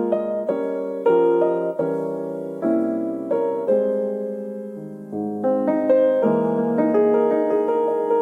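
Solo piano music playing slow, gentle chords, each struck and left to fade before the next.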